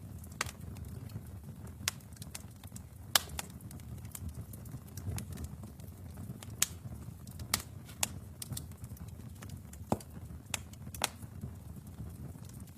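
Wood fire burning in a fireplace: a steady low rumble of the flames with sharp, irregular crackles and pops, a dozen or so, the loudest a little after three seconds in.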